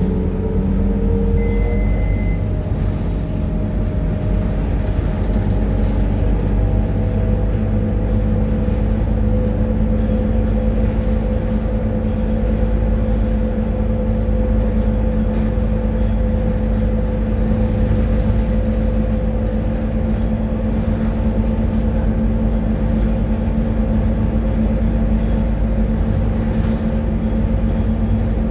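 Scania K230UB bus's diesel engine running with a steady low drone. A higher tone climbs over the first couple of seconds and then holds steady. A short electronic beep sounds about two seconds in.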